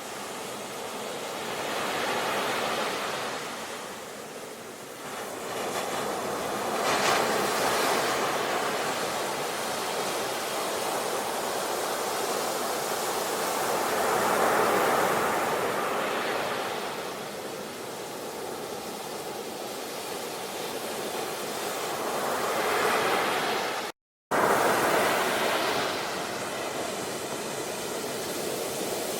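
Sea waves breaking and washing on a shore: a steady rush of surf that swells and falls back every few seconds. There is a brief cut to silence about three-quarters of the way through.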